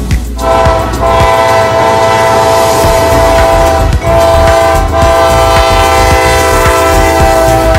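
Railroad locomotive air horn sounding a loud, sustained chord of several tones, breaking off briefly twice, over the low rumble of the train.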